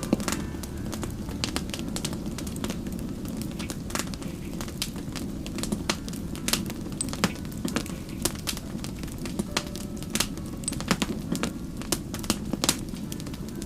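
Wood fire crackling: frequent, irregular sharp pops and snaps over a steady low rumble of the burning fire.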